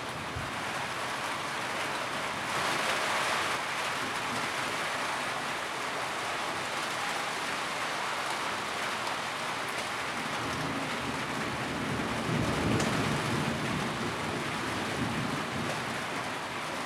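Steady rain drumming on a tin roof, a dense hiss of drops with no let-up. The rain swells a little about three seconds in, and a low rumble rises and fades about twelve seconds in.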